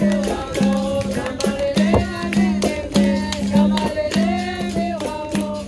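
Capoeira roda music: voices singing a call-and-response song over a berimbau's repeating low note, with a shaker rattle and hand-percussion strikes keeping a steady rhythm.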